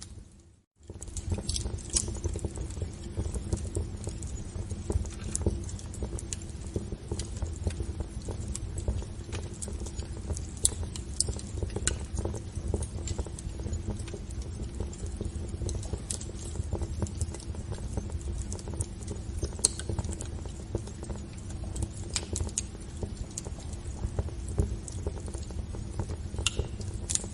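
Wood fire crackling in a fireplace: irregular sharp pops and snaps over a steady low rumble of the flames. The sound drops out briefly to near silence just under a second in.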